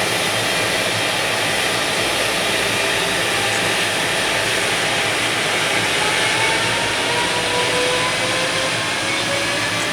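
Container freight train rolling past as it pulls out of a station: a steady rush of wheel-on-rail noise, with faint whines slowly rising in pitch in the second half as it gathers speed.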